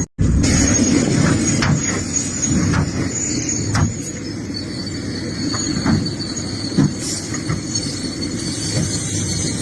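Excavator working rocky ground: a steady low engine rumble with a high metallic squeal over it and scattered sharp knocks. The sound drops out for an instant right at the start.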